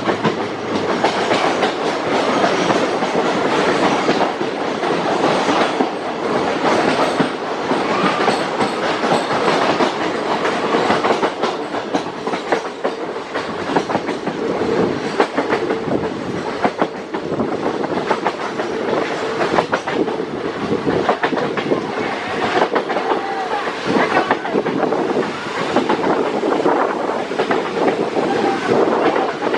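Indian Railways passenger train running along the track, its wheels clattering over the rail joints in a continuous stream of clicks.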